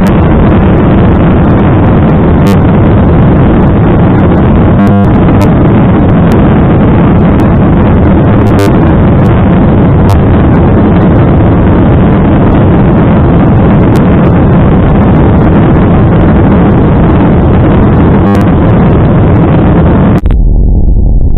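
Airliner cabin noise from inside the plane: jet engines and rushing air, loud and steady. It changes abruptly to a duller, lower sound near the end.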